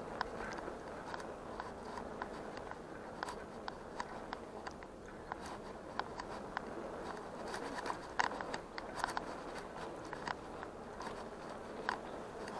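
Bicycle rolling over an unpaved track: a steady crunching from the tyres, with many scattered sharp clicks.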